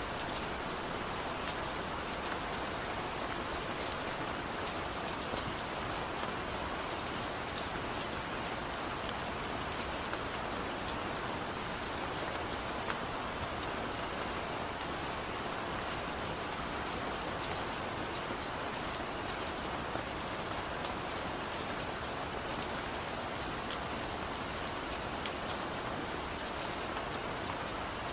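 Steady rain falling on a surface, an even hiss dotted with many sharp individual drop ticks.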